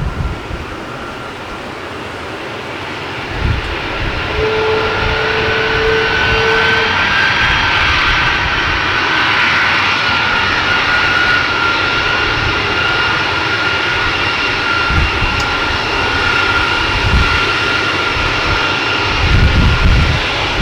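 Four CFM56 (F108) turbofan engines of a Boeing KC-135R tanker at high power on departure: a steady jet roar with a high whine that swells over the first few seconds and then holds. Gusts of wind on the microphone rumble near the start and end.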